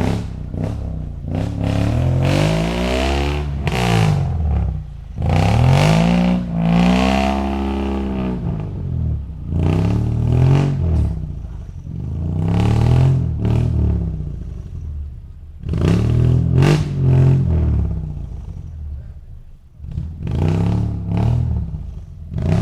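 Suzuki Escudo 4x4's engine blipped through an aftermarket dual racing exhaust, revving up and dropping back about seven times, with one rev held high for a couple of seconds.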